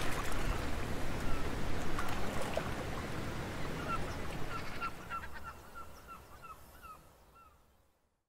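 Water washing along, fading away, with a bird giving a run of about ten short, repeated calls in the second half before the sound dies out.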